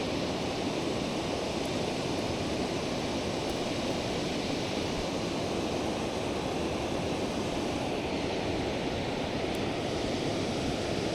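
River current rushing over rocks, a steady even rush of moving water.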